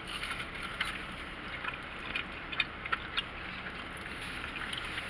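Steady background noise inside a car, with scattered small clicks and crinkles of people eating takeout burgers and fries.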